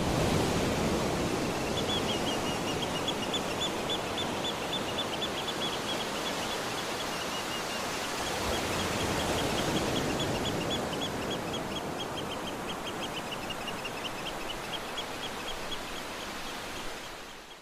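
Outdoor ambience: a steady rush of noise, with a bird calling in a long run of short, high chirps, several a second, that stops a few seconds before the end. It fades in at the start and fades out at the end.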